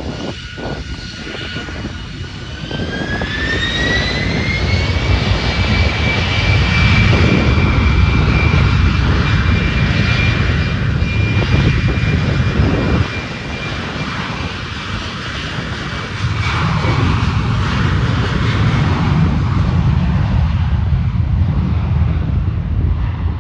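Jet airliner's engines spooling up to takeoff power: a whine rises in pitch over a few seconds and then holds steady, over a loud, steady rumble of jet noise.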